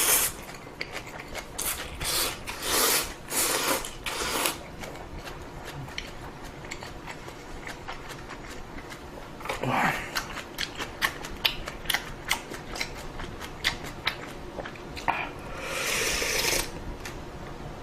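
A person eating a pot of ramen close to the microphone: a few longer rushes of noisy sound among many small clicks of chewing and mouth noises.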